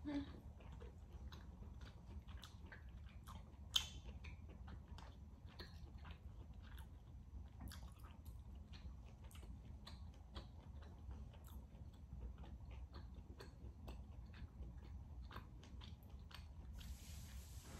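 A person chewing rare steak close to the microphone: soft, wet, irregular mouth clicks and smacks, with one sharper click about four seconds in.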